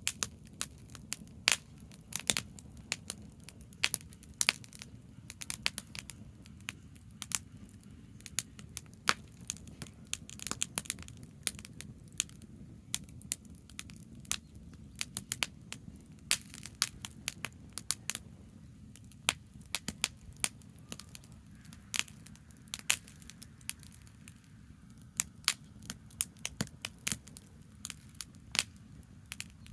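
Burning tree branches crackling in an open fire, with sharp irregular pops several times a second over a steady low rumble.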